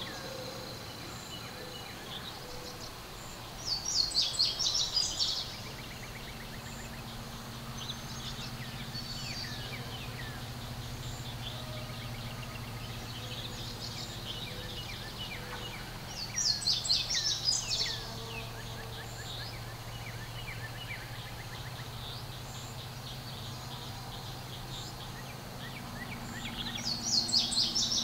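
A songbird repeating a short, fast, high-pitched song of rapid notes three times, about twelve seconds apart, with fainter bird chirps between.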